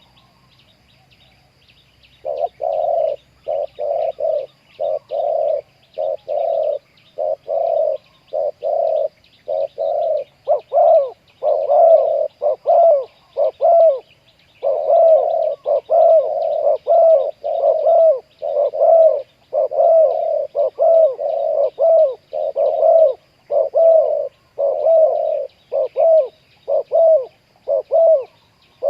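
Spotted dove cooing over and over in quick runs of short notes, starting after a pause of about two seconds. A faint steady high-pitched buzz runs underneath.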